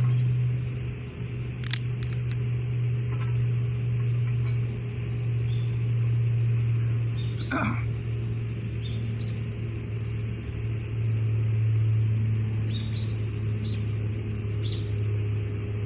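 Insects trilling steadily and high, over a louder steady low rumble, with a few light clicks and one short squeak about halfway through.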